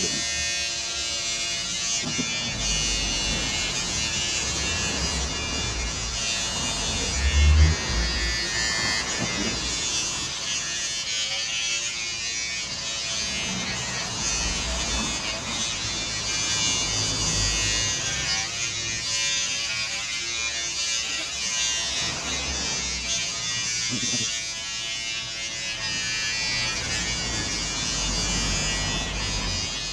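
Electric hair clippers buzzing steadily as they cut through long hair, with a few low bumps; the loudest comes about seven and a half seconds in.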